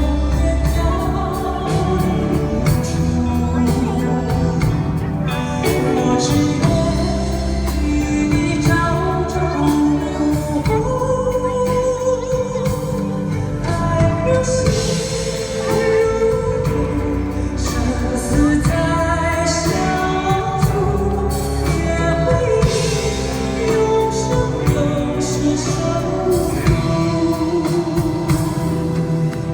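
A song performed live: a sung melody with held notes over instrumental accompaniment.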